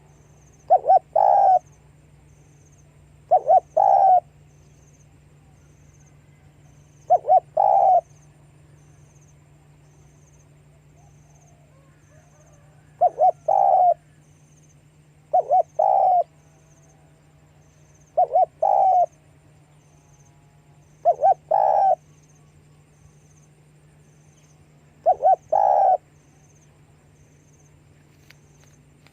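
Spotted dove cooing: eight calls, each a quick double note running into a longer coo, repeated every few seconds.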